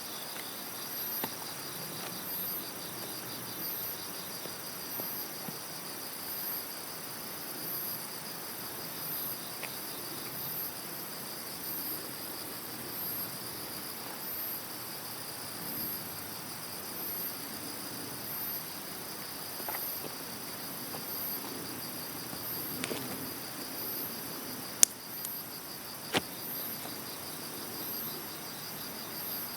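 Crickets and other insects chirping steadily: a high chirp repeats about once a second over a continuous trill. Two sharp cracks stand out near the end.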